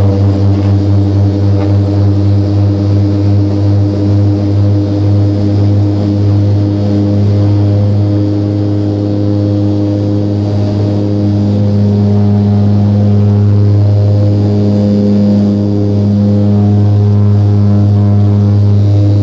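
Twin turboprop engines and propellers of a Let L-410 Turbolet running at high power, a strong, steady propeller hum. For the first few seconds the sound throbs in a regular beat as the two propellers turn slightly out of step, then it settles into an even drone.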